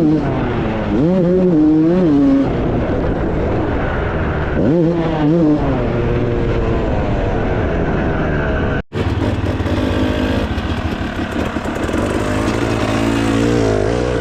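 Dirt bike engine revving up and down again and again, with the pitch rising and falling. A sudden brief drop-out comes about nine seconds in, after which the engine runs more steadily before revving again near the end.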